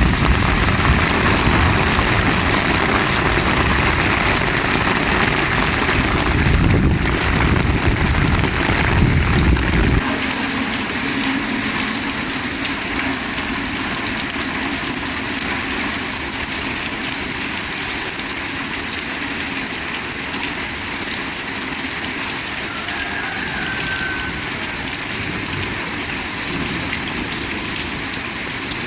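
Heavy rain falling steadily, a dense hiss. For about the first ten seconds a low rumble lies under it, which cuts off abruptly.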